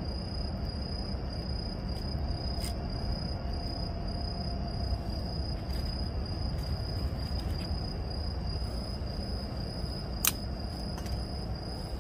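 Night insects trilling steadily at one high pitch over a low, even outdoor rumble, with one sharp click about ten seconds in.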